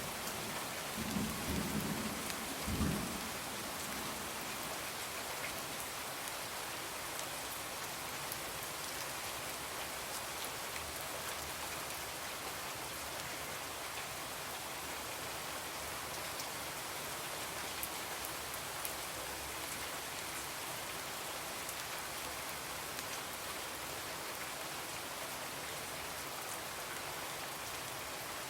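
Steady rain falling on a window, an even hiss. Low rumbles of thunder sound in the first few seconds, then fade, leaving only the rain.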